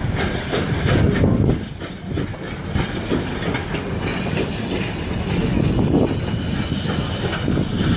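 Narrow-gauge railroad car rolling along the track: a steady low rumble of wheels on rails with clicking over the rail joints, briefly quieter about two seconds in.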